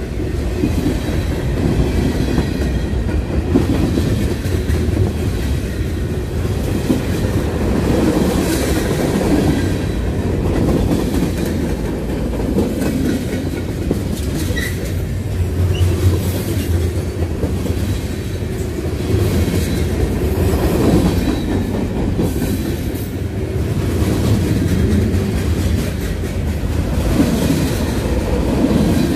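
Freight train of boxcars, covered hoppers and tank cars rolling past: a steady, loud rumble of steel wheels on the rails, with clickety-clack as the wheels cross the rail joints.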